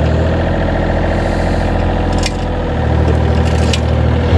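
Engine of a heavy working machine, such as a truck or crane used to lift and place heavy objects, running steadily. Its note shifts about two and a half seconds in, and a couple of sharp clicks come through over it.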